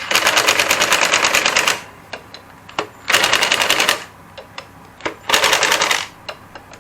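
Cordless impact driver running in the screws of a pit bike engine's oil centrifuge: three bursts of rapid hammering, the first the longest, with short pauses between.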